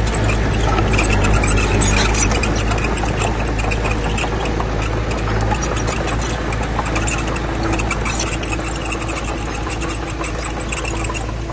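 Heavy diesel earthmoving machinery running steadily, with many short knocks and rattles over the engine hum. A steady higher tone joins it a little past halfway.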